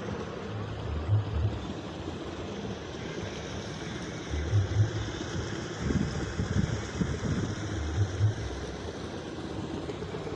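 Kite hummer droning in the wind, a steady buzzing hum that swells in low pulses about every three and a half seconds.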